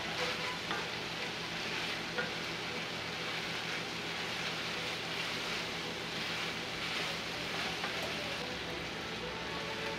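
Diced potatoes, carrots and celery sizzling steadily as they fry in a cast iron skillet.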